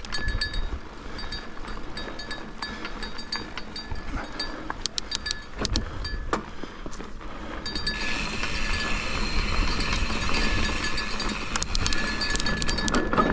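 A mountain bike being ridden over a dirt trail: tyre rumble with the chain and frame rattling and clicking over bumps, and wind on the microphone. The noise grows brighter and louder about two-thirds of the way through.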